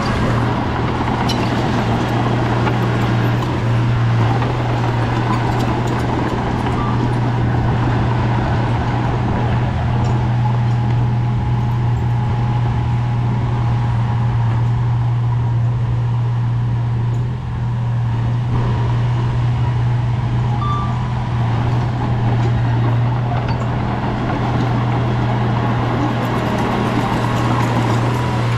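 Bulldozer diesel engine running with a steady low drone, dipping briefly about two-thirds of the way through.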